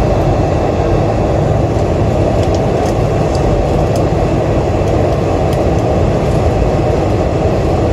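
Steady cabin noise inside a Boeing 747-400 on the ground after landing: a dense, even rumble of engines and airframe, with a few faint ticks and rattles.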